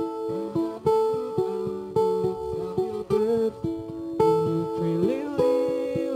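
Acoustic guitar strumming chords as a song accompaniment, a new strum about once a second with the chords ringing between.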